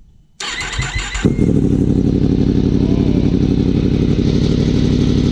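Yamaha MT-10's crossplane inline-four starting through a newly fitted Austin Racing aftermarket exhaust: the starter cranks for about a second, the engine catches and settles into a loud, steady idle.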